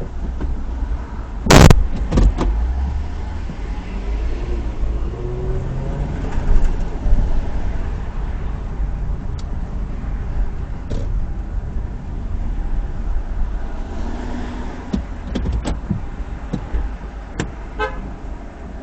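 Low, steady road and engine rumble of a car heard from inside the cabin while driving, broken about a second and a half in by one sharp, very loud bang, with a few lighter clicks and knocks later on.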